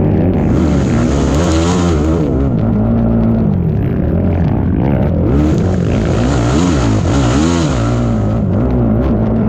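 ATV engine revving, its pitch climbing and dropping again and again as the throttle opens and closes, with a hiss rising over it twice.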